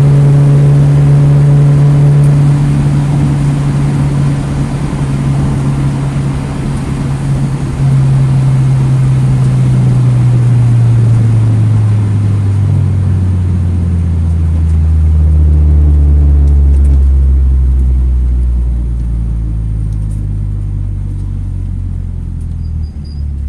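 2009 Mini Cooper S's turbocharged 1.6-litre four-cylinder engine pulling hard at steady revs on track, then dropping in pitch over several seconds as the car slows, over steady tyre and wind noise.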